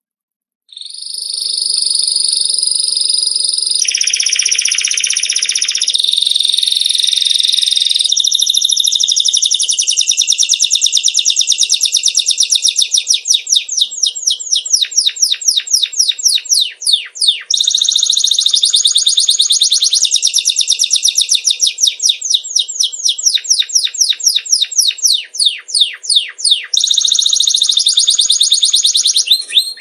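Songbird song of fast, high trills and rapidly repeated notes, starting abruptly about a second in: bird song of the kind played to teach cage birds to sing.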